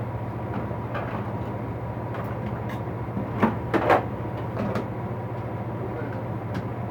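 Tools and objects being shifted and knocked together while rummaging through a cluttered shed, with a few sharp knocks about halfway through, over a steady low hum.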